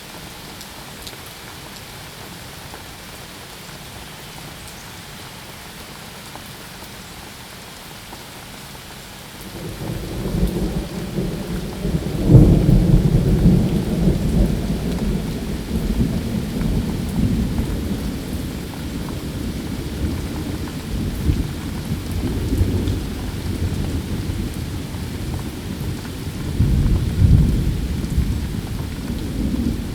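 Steady rain falling, then about nine seconds in a long roll of thunder swells up, loudest a few seconds later, and rumbles on through the rest with another surge near the end.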